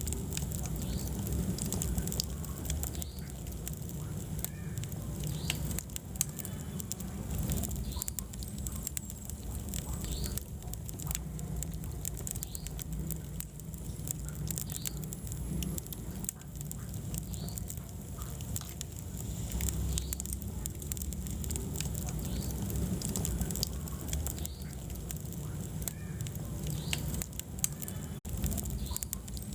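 Wood fire burning in a fireplace: frequent sharp crackles and pops of the burning logs over a low, steady rumble of the flames.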